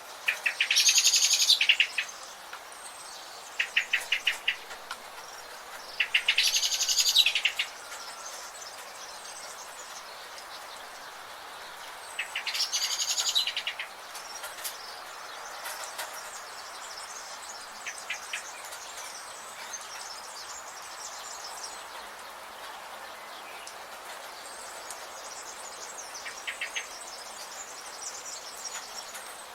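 Wild birds calling in a forest. A loud, rapid chattering trill comes three times, about six seconds apart, with fainter short trills later on over a steady background hiss.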